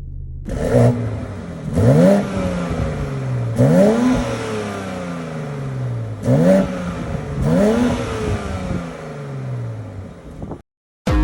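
BMW X3M's twin-turbo straight-six free-revving in five blips, each rising quickly in pitch and falling back slowly to idle; the sound cuts off abruptly near the end.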